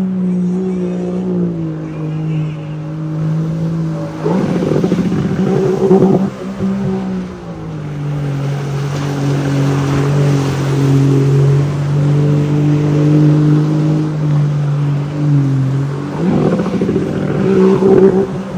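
Jet ski engine running, its pitch stepping down and back up with the throttle, with two louder rushes of noise about four and sixteen seconds in.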